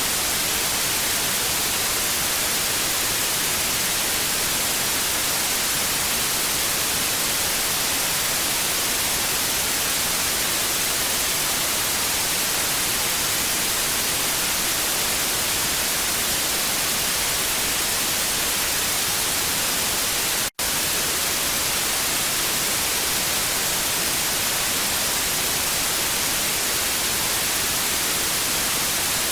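Television static: a steady hiss of white noise, brightest in the high end, that drops out for an instant about two-thirds of the way through.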